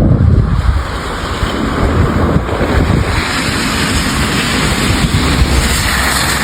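Strong storm wind buffeting the microphone: a loud rumbling rush that turns brighter and hissier in the second half.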